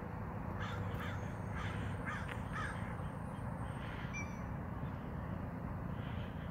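Bird calling: a quick run of about six short calls in the first half, then a few faint high chirps about four seconds in, over a steady low background rumble.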